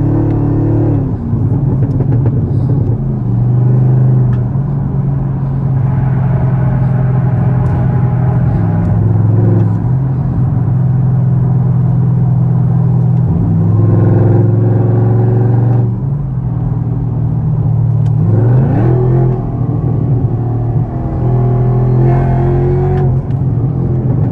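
Chevrolet Camaro ZL1's supercharged V8 running hard at highway speed, a steady low drone whose revs rise and fall, with a quick climb in revs about three-quarters of the way through.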